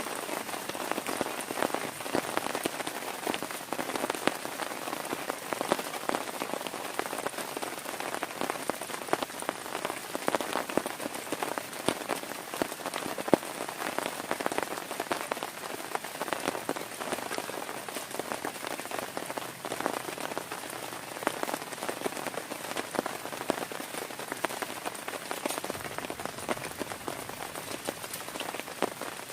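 Heavy rain falling steadily on a tent, with a dense patter of individual drops hitting the fabric.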